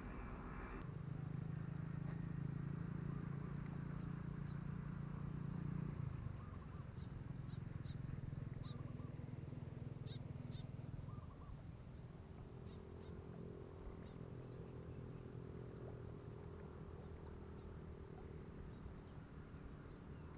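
Faint outdoor ambience: a steady low hum that drops and shifts slightly higher about twelve seconds in, with scattered short, faint high chirps.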